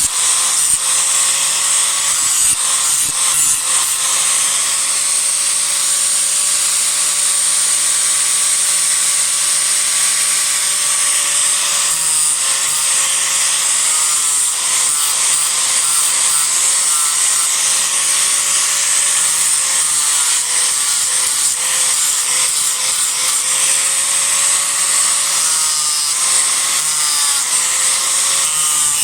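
Disc grinder running continuously and cutting into cedar wood, a steady hissing grind over a motor whine that dips and wavers in pitch as the disc is pressed into the wood.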